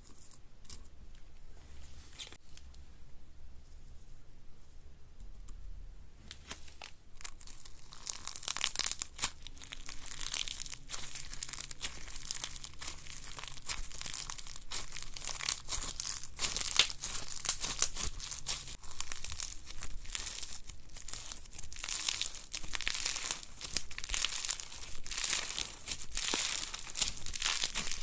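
Slime being worked by hand, giving a crackling run of small clicks and pops. It is sparse and quiet at first, then grows denser and louder from about seven seconds in.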